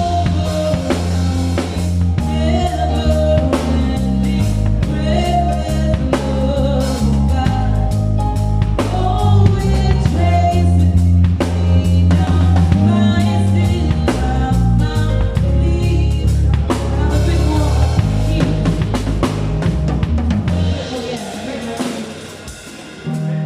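Band playing a worship song: drum kit keeping a beat under bass notes, with singing over the top. The music drops away near the end.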